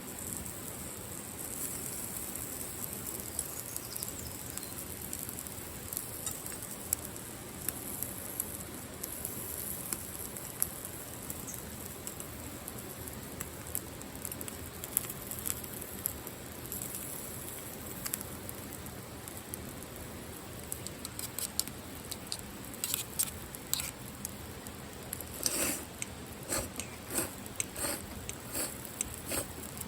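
Steady rain, with scattered light taps and clicks that come more often over the last several seconds.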